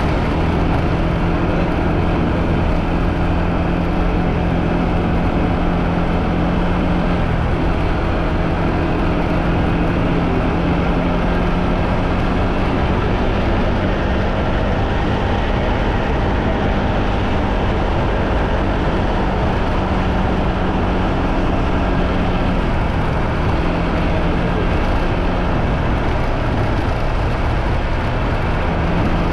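Motorbike engine running at a steady cruising pitch under way, with road and wind noise.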